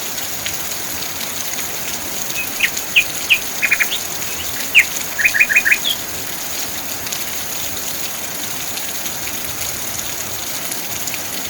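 Steady rain hiss with a bird chirping in the middle, in short sharp calls, some in quick runs of three or four.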